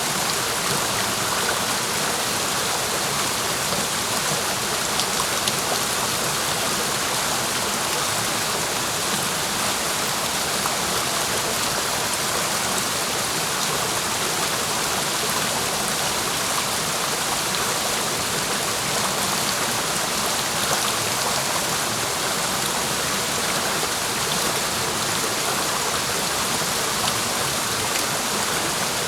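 A clear mountain stream rushing and splashing over rocks: a steady, unbroken hiss of running water.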